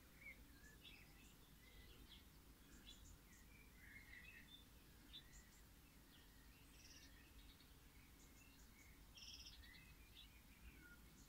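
Faint, scattered short bird chirps over quiet outdoor background noise.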